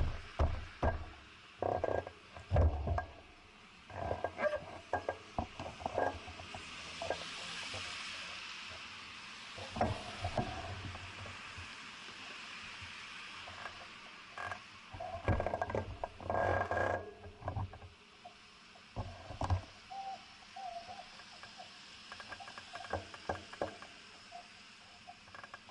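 Bicycle riding over a city street: irregular knocks and rattles throughout, with a swell of hiss from about six to ten seconds in.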